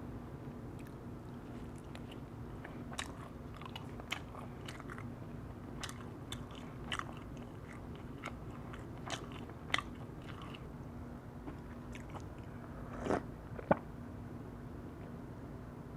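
Close-miked chewing and biting of firewood-roasted whole chicken: scattered crisp clicks and mouth smacks at an uneven pace, the loudest pair about 13 to 14 seconds in, over a faint steady hum.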